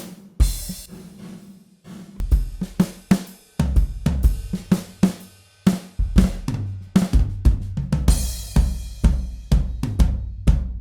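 Sampled 1970s Rogers Big R drum kit in EZDrummer 3 playing a pop groove. It opens on a single hit with a crash cymbal and a few sparse strokes, then settles into a steady beat of kick, snare and hi-hat with a long low ring on the kick. It stops briefly about six seconds in, then comes back fuller, with another crash near eight seconds.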